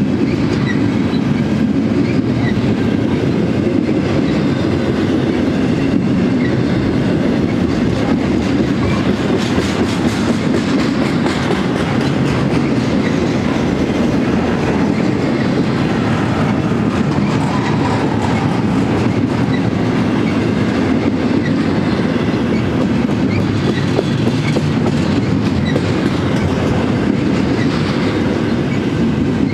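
Double-stack intermodal container well cars rolling past at close range: a steady rumble of steel wheels on rail.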